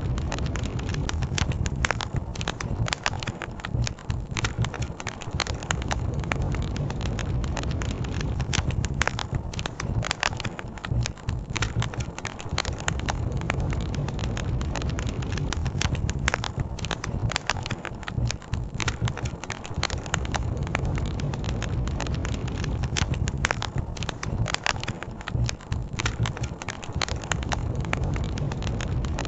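Campfire crackling with many sharp pops and snaps, over a steady low rush of river water.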